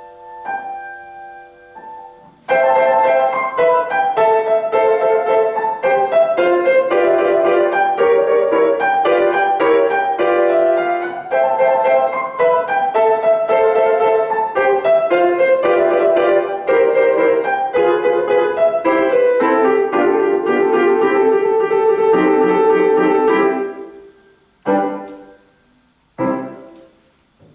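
Solo piano playing classical music. A few soft notes lead into a fast, loud passage of many notes from about two and a half seconds in. The passage stops near the end, and two short separate chords follow and die away.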